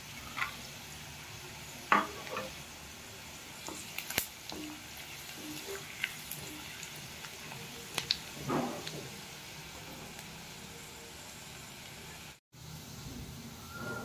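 Sliced onions and cashews sizzling steadily as they fry in mustard oil in a kadai, with a wooden spatula now and then scraping and tapping against the pan. The sound drops out briefly near the end.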